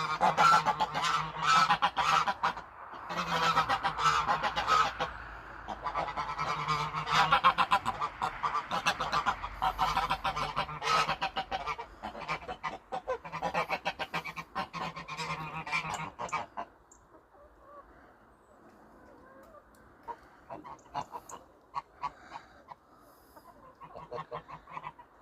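Geese honking, many loud calls overlapping in a dense, continuous chorus. About two-thirds of the way through it cuts off abruptly to a much quieter stretch with only scattered short sounds.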